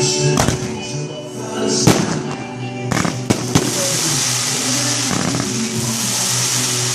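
Fireworks going off: a handful of sharp bangs in the first few seconds, then a dense crackling hiss from about three seconds in, over background music.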